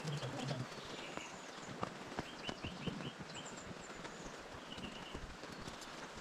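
Songbirds chirping in short repeated phrases, with irregular footsteps clicking on a stony trail and a steady background hiss.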